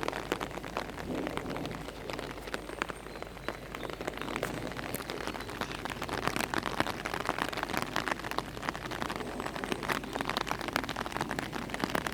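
Steady rain, with many separate drops ticking on an umbrella close by.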